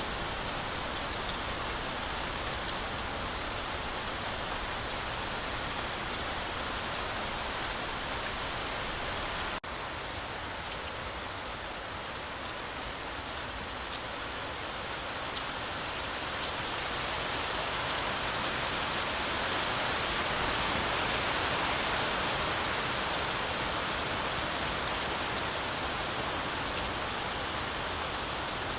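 Heavy rain falling steadily through a forest canopy, a dense even hiss that swells a little louder about two-thirds of the way through. A momentary dropout comes about ten seconds in.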